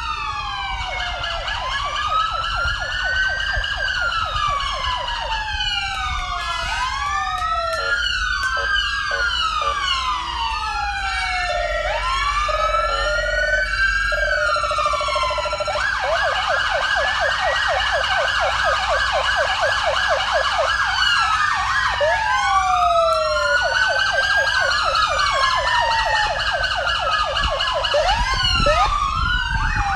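Several emergency-vehicle sirens sounding at once, their wailing sweeps rising and falling out of step with one another, with quicker yelping sweeps in places.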